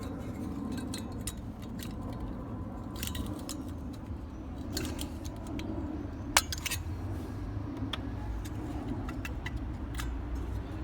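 Metal clicks and clinks of tools and parts as the lower ring magnet is worked loose from a microwave oven's magnetron, with one sharp, louder click about six and a half seconds in. A steady low rumble runs underneath.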